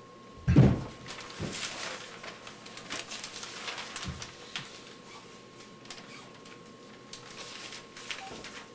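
A thump about half a second in, then scattered faint rustling and light clicks, over a steady faint hum and hiss from a cassette tape recording.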